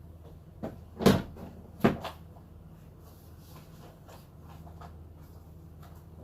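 A door being shut: two sharp knocks about a second apart, over a steady low hum.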